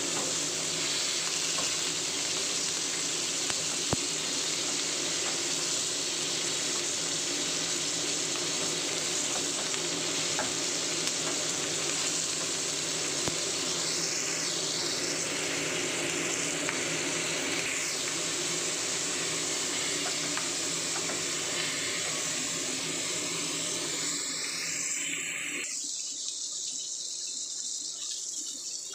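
King mackerel steak frying in hot oil in a frying pan: a steady sizzle with a few small pops, fading near the end.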